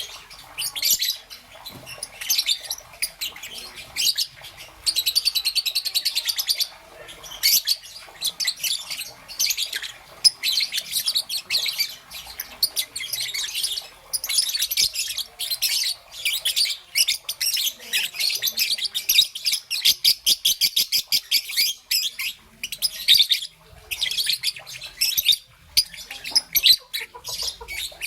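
Young peach-faced lovebird chirping almost without pause: rapid high-pitched chirps broken by fast trilled runs.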